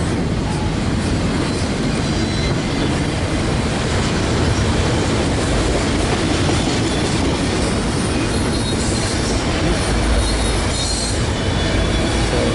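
Freight train cars rolling steadily past: loud wheel-and-rail rumble, with the clickety-clack of wheels over rail joints and a faint thin wheel squeal.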